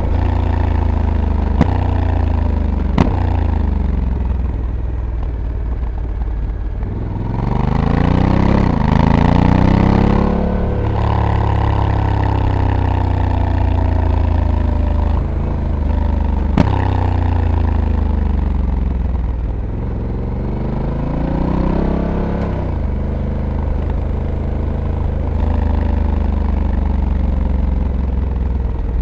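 Honda Africa Twin's 1084 cc parallel-twin engine heard from on board the moving bike, revs rising and falling repeatedly as it accelerates and slows, climbing highest about a third of the way in and again past two-thirds. A few sharp clicks stand out over it.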